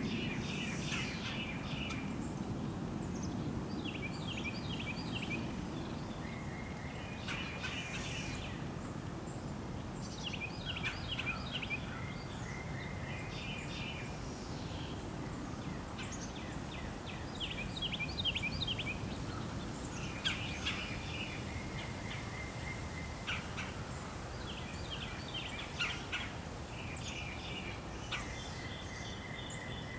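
Small songbirds chirping in short, rapid bursts that recur every few seconds, over a steady low rumble of background noise.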